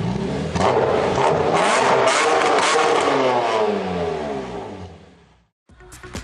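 Audi A4 2.0 TDI four-cylinder diesel revving up under load on a chassis dyno, its pitch sweeping up through a power run before fading out about five seconds in. Electronic dance music with a beat starts near the end.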